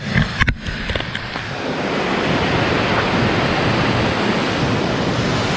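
Waterfall rushing: a steady wash of falling water, with a few brief knocks and dropouts in the first second or so.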